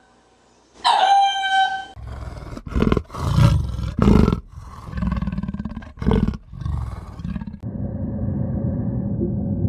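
A short high call that drops in pitch about a second in. Then a large animal gives a string of deep, rough roars and growls for about five seconds, and a steady low background noise takes over near the end.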